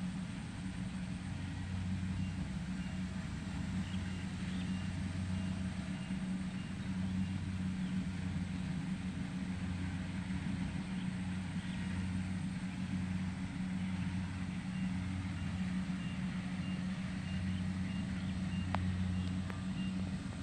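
An engine running steadily, its low hum swelling and dipping about once a second.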